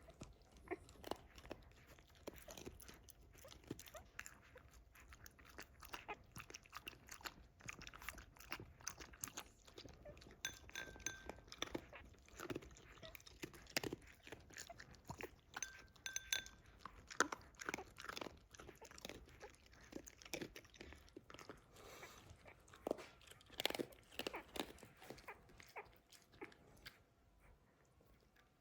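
A dog chewing and crunching food, with irregular crunches throughout.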